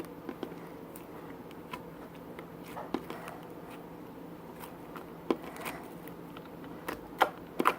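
Slime being kneaded and stretched by hand, with scattered small wet clicks and pops and a faint steady hum underneath.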